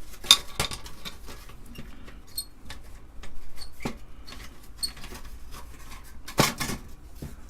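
Hands working a circuit board loose from its sheet-metal RF shield: scattered clicks, taps and scrapes of metal and plastic, with a brief high metallic ping twice and a louder clatter about six seconds in.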